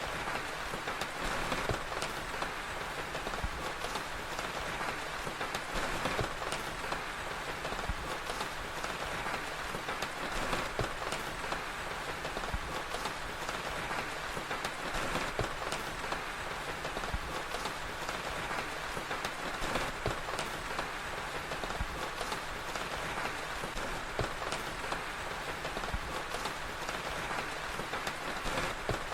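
Steady rain, a dense even hiss, with many small sharp crackles scattered through it from a crackling fire.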